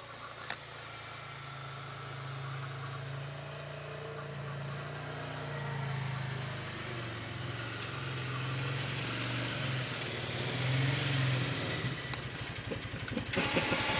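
Engine of a vehicle plowing a snowy driveway, running steadily and slowly getting louder. Near the end it becomes louder and rougher.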